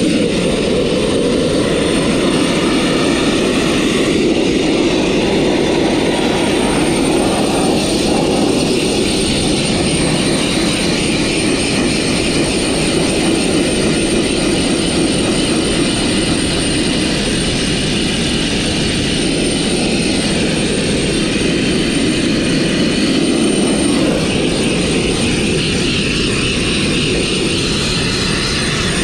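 Sandblaster nozzle blasting steadily, compressed air driving fine crushed-glass grit onto metal: a continuous loud rushing noise with no pauses.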